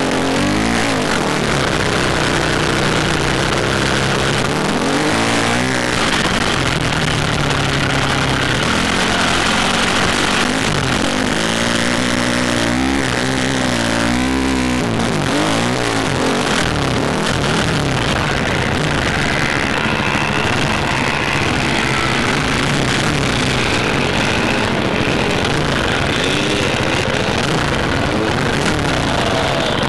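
Motocross bike engine revving up and down in repeated swells while riding, over steady rushing noise such as wind on a helmet-cam microphone.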